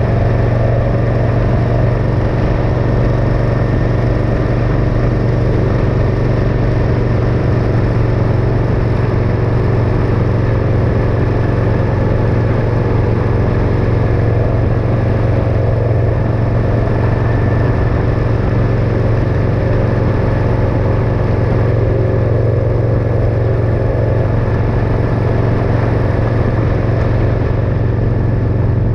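Motorcycle engine running at a steady, even speed while riding, with no revving or gear changes.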